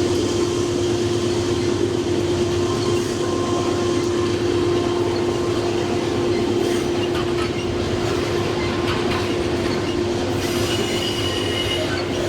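Freight train rolling past: steady wheel and car noise with a constant hum, and thin high-pitched squeals from the wheels coming in near the end.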